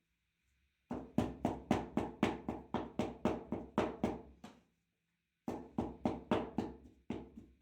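Rapid repeated blows on chicken meat being pounded for kebab: sharp knocks with a dull thump, about four a second, in two runs with a pause of about a second between them.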